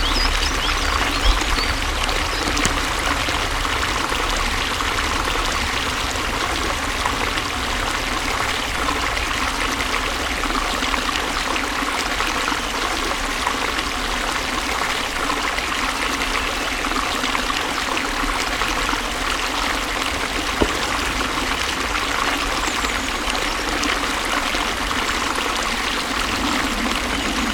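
Flowing water running steadily, an even splashing and trickling rush with a low rumble beneath.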